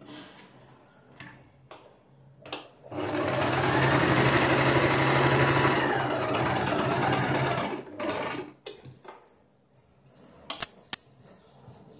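Sewing machine running steadily for about five seconds, starting about three seconds in and slowing to a stop near eight seconds, stitching the marked dart shapes of a blouse. Scattered light clicks and rustles come before and after.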